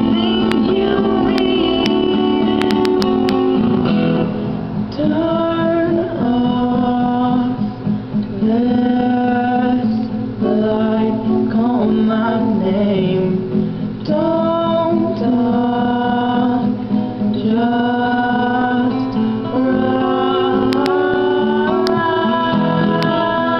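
A guitar playing chords accompanies a voice singing a song; the guitar is heard alone at first and the singing comes in about four seconds in.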